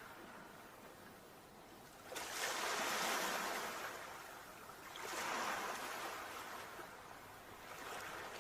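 Sea waves breaking, three surges of surf about three seconds apart, each rushing in suddenly and washing away.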